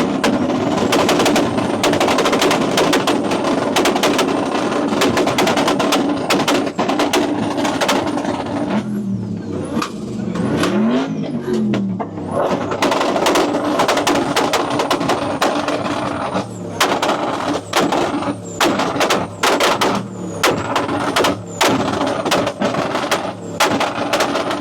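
Twin-turbo LS V8 revved hard and held against the rev limiter, with rapid gunshot-like pops and bangs from the exhaust. Around the middle the revs dip and climb again, and later the running turns choppy, with sharp bangs between bursts.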